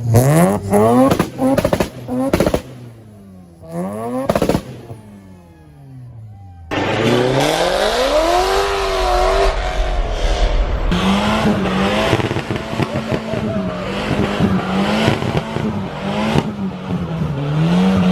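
Modified tuner car engines revving hard and accelerating away, pitch climbing and dropping through the gears, with a few sharp exhaust pops in the first five seconds. About seven seconds in a second loud car takes over, revving, then holding an engine note that wavers slightly.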